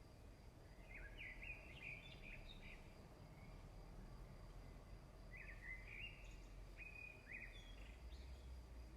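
A songbird singing faintly, in two quick chirping phrases a few seconds apart, over a steady low background rumble.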